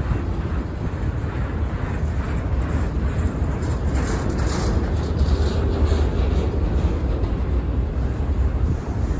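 Freight train passing on the rails: a steady low rumble of rolling cars, with a brief burst of higher-pitched wheel noise about four seconds in.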